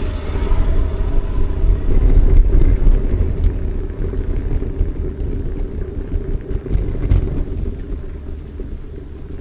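Steady low outdoor rumble, louder around two to three seconds in and easing off toward the end, with a couple of faint clicks.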